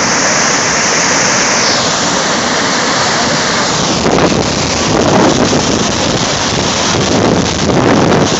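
Saar waterfall in heavy winter flow: a loud, steady rush of falling water. From about halfway, uneven gusts of wind buffet the microphone over it.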